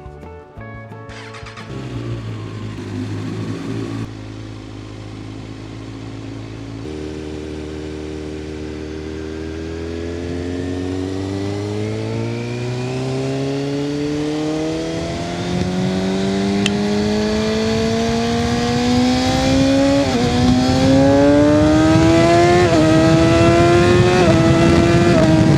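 Kawasaki ZX6R inline-four engine, running steadily at first, then accelerating in one long rise in pitch that grows louder. Near the end it dips briefly twice and climbs again as it shifts up.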